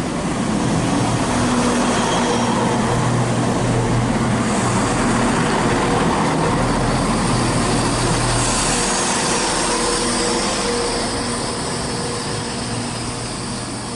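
Class 170 Turbostar diesel multiple unit arriving, its underfloor diesel engines humming steadily under the rumble of wheels on rail. A high hiss joins about four seconds in, and the sound eases off over the last few seconds.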